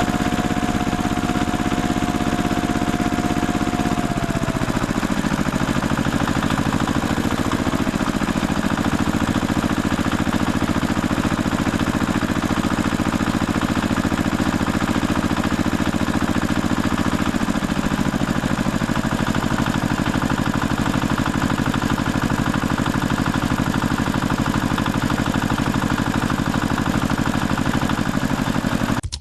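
Tractor engine running steadily, its pitch dropping about four to five seconds in as it settles to a lower speed, with another slight drop near eighteen seconds.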